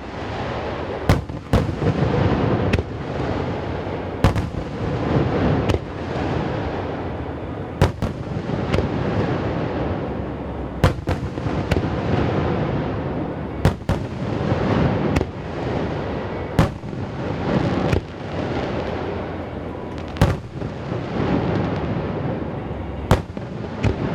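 Fireworks display: about twenty sharp aerial shell bursts in quick, irregular succession over a continuous rumble, the bangs echoing off the surrounding mountains.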